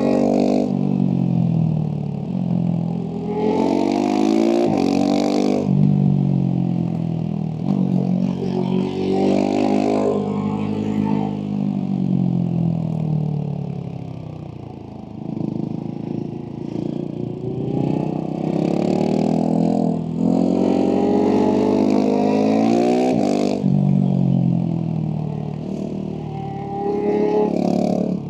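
Husqvarna 701 Supermoto's big single-cylinder engine through a Leovince slip-on exhaust, ridden hard. Its pitch repeatedly climbs under throttle, drops suddenly at gear changes, and glides down when the throttle is closed. It falls lowest about halfway through, then picks up again.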